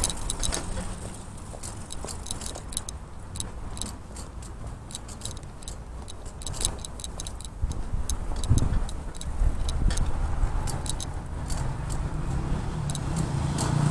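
Bicycle riding along a road: low wind and tyre rumble with many light, irregular metallic clicks and rattles from the bike.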